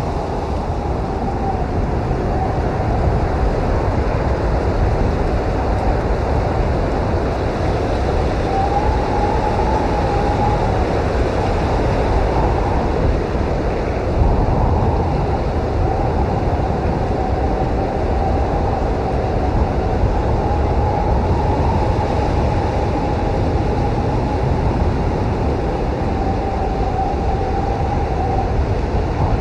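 Snowstorm wind blowing hard and steadily, a deep rumble with a thin whistling tone that wavers up and down in pitch.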